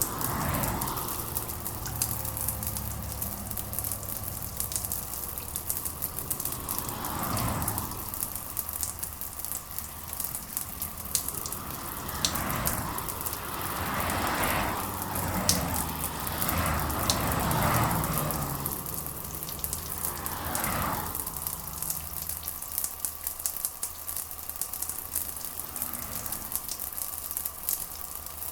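Steady rain with close drops pattering and crackling. In the middle several swells of sound rise and fade every few seconds.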